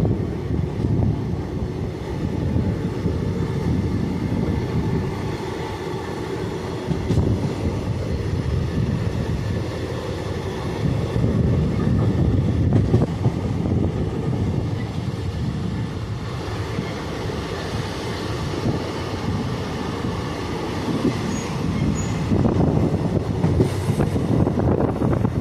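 A moving train heard from on board: a steady low rumble of wheels and coaches running along the track.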